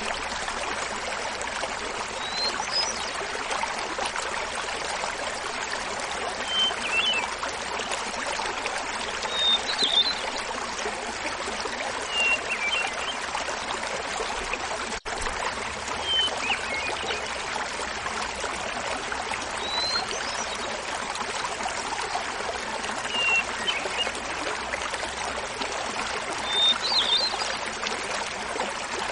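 Small mountain waterfall splashing steadily, with a hermit thrush singing short, high, flute-like phrases every three to four seconds over it. The sound drops out for an instant about halfway through.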